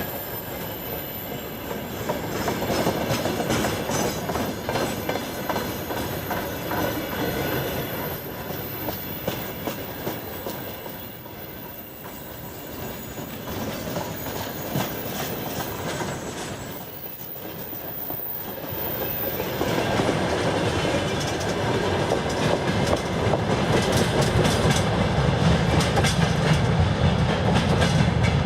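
Freight train wagons rolling past on jointed track, their wheels clicking and clattering over rail joints, with some high wheel squeal. It grows louder and heavier in the last third.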